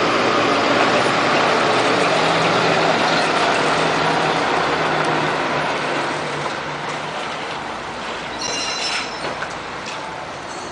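Heavy truck on the move: a steady rush of engine and road noise that eases off gradually in the second half, with a brief high squeal a little over eight seconds in.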